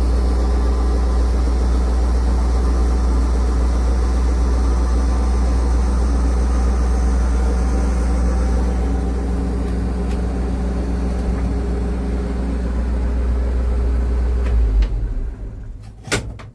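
1973 Chevy C60 grain truck's 350 V8 engine idling steadily, then shutting off near the end, followed by a single sharp knock.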